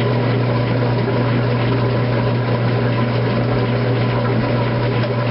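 2008 Kenmore top-load washing machine running mid-cycle, its motor giving a loud, steady hum.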